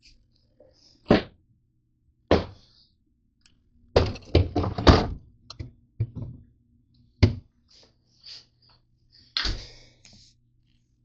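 A series of sharp knocks and thunks: single ones spaced a second or more apart, with a quick flurry of them in the middle, over a faint low steady hum.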